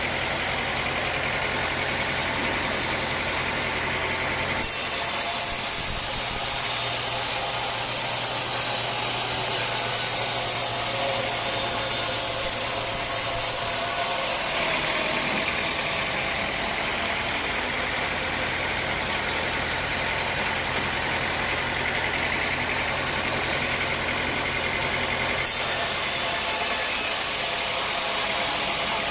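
Sawmill machinery running: a steady engine drone with a low hum. A high hiss comes and goes in sudden jumps several times.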